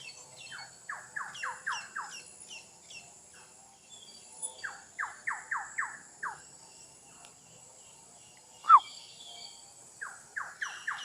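Several forest birds singing: one repeats runs of five or six quick falling notes, another gives a higher series of short falling notes, and one loud single falling note comes near the end. A steady high insect buzz runs underneath.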